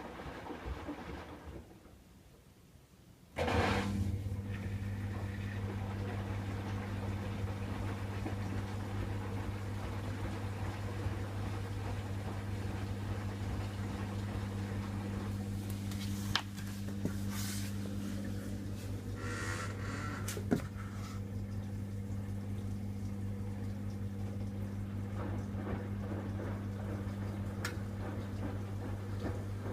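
Hoover WDYN 11746 PG8 washer-dryer between its first rinse and spin: after a short lull, a steady electric hum switches on suddenly about three seconds in and runs on evenly, typical of the drain pump emptying the rinse water, with a few light clicks and some water gurgling.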